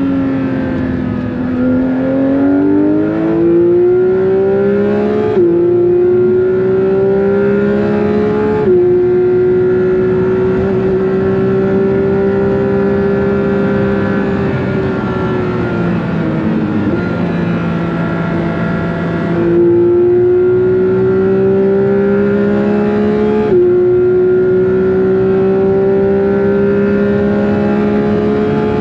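Porsche 911 GT3 (992.2) 4.0-litre naturally aspirated flat-six under power at speed, heard onboard. The engine note climbs through the revs with quick upshifts about 5, 9 and 23 seconds in, each a sudden drop in pitch. Around two-thirds through, the note falls away and holds lower, then jumps back up, as on a lift and downshift.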